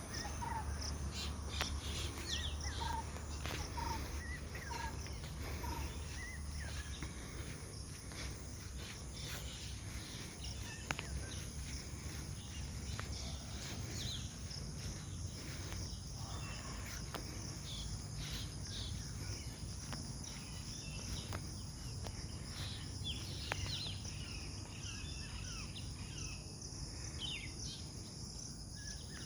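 Birds chirping and calling over a steady high drone of crickets, with a low background rumble. In the first few seconds one bird repeats a short mid-pitched note about every half second.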